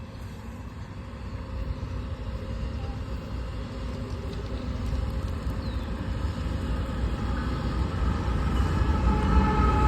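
Train rumbling, growing steadily louder as it comes closer, with high steady tones coming in over the last few seconds.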